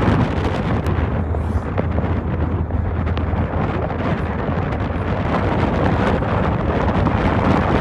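Steady road noise of a moving vehicle, a low engine hum under a rushing noise, with wind buffeting the microphone.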